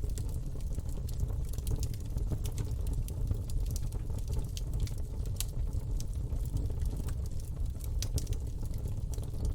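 Campfire burning: a steady low rumble of flames with irregular sharp crackles and pops, several a second.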